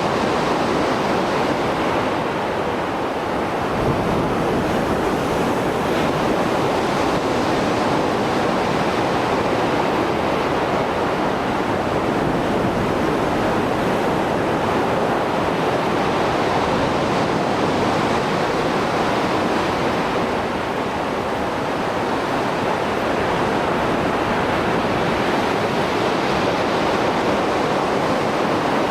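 Mediterranean Sea surf after a storm, breaking waves and churning water making a continuous heavy wash with gentle swells in loudness. There is one brief sharper splash about four seconds in.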